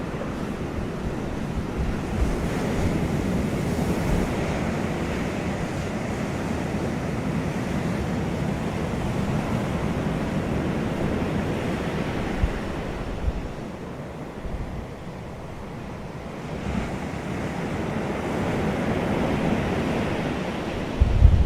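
Wind gusting outdoors and buffeting the microphone: a rushing that swells and eases, dips for a couple of seconds past the middle, then builds again. Low thumps of wind hitting the mic run through it, the strongest right at the end.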